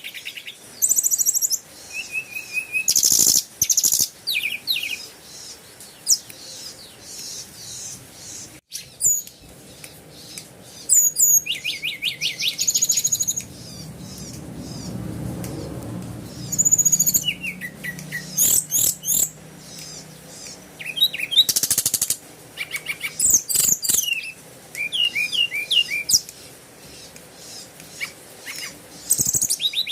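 Birds chirping and calling: short high chirps, quick whistled pitch sweeps and fast trills, in bouts throughout.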